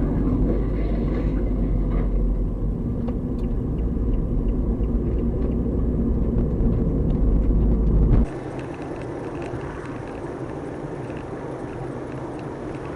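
Car driving with a loud, steady low rumble of road and engine noise. About eight seconds in it cuts off abruptly to a quieter, hissier vehicle noise.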